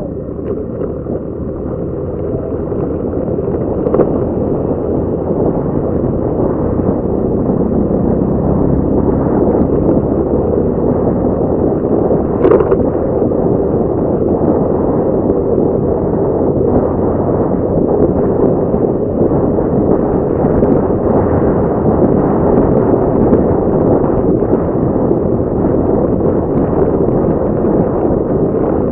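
Motorcycle ride heard as heavy wind buffeting on the microphone, with the engine running underneath. The rumble builds over the first few seconds, then holds steady, with a couple of brief knocks.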